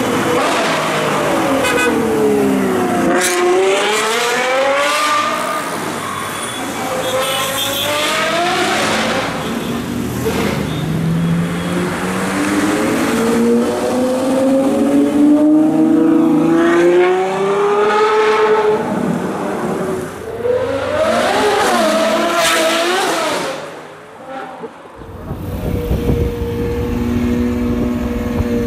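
Ferrari 812 Superfast's naturally aspirated V12 revving up and down again and again, its pitch climbing and falling with each run through the gears, with one long climb in the middle. Near the end the level dips, then the engine settles into a steadier, lower note.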